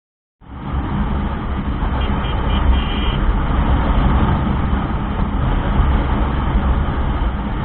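Steady rumble of a moving motorbike ride, engine and road noise with wind on the microphone, starting abruptly just after the beginning, with a few short faint high tones about two seconds in.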